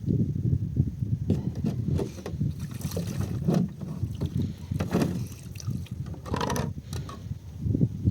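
Wind buffeting the microphone in low, uneven gusts, with scattered short rustles and knocks.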